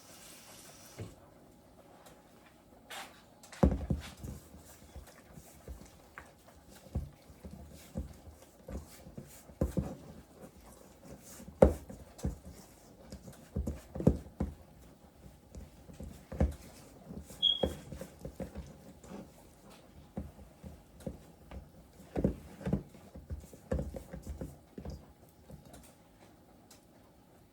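Hands squeezing and mixing wet dumpling dough of flour, butter, milk and water in a bowl: irregular soft squelches and thuds of dough against the bowl.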